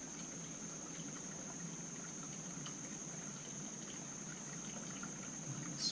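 Steady background room tone: a low hum and hiss with a thin, constant high-pitched whine, and a few faint light ticks from small carburetor parts being handled.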